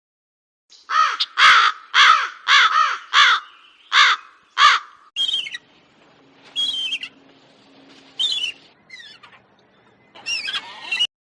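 A crow cawing, eight harsh caws in quick succession. It is followed by a different bird giving several short, higher calls over a faint hiss.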